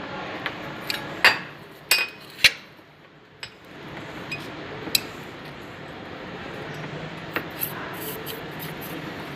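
Metal tools and parts clinking against each other during hand work on a truck cabin-tilt jack: three sharp clinks close together about a second in, then a few lighter ticks over a steady workshop background.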